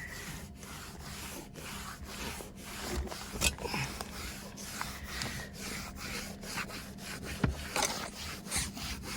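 Continuous scraping and rubbing noise over a faint steady low hum.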